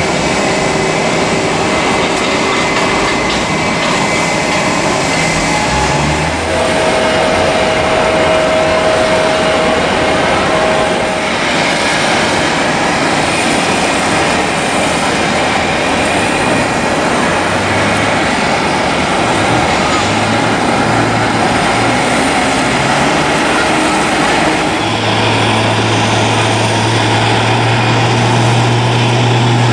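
Airbus A350-900's Rolls-Royce Trent XWB turbofan engines running at high power on takeoff: a loud, steady jet rush with a few held humming tones, a low hum growing stronger about 25 seconds in.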